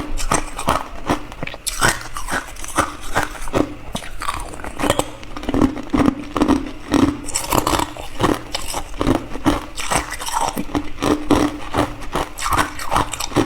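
Hard clear ice being bitten and chewed close to the microphone: rapid, irregular crunching and cracking, several sharp cracks a second throughout.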